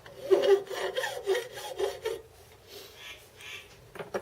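A hand file rubbing in quick, irregular strokes over a freshly machined metal part, with a ringing note, then fainter scraping and a single sharp click near the end.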